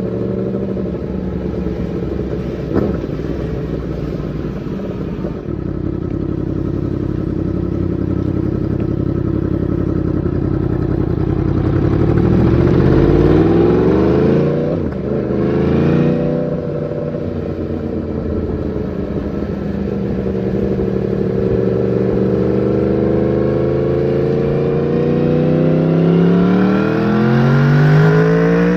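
Yamaha MT-10's crossplane inline-four engine running through its exhaust, held steady at first, then revved up in pitch about halfway through. It drops back suddenly, then rises again and climbs once more near the end.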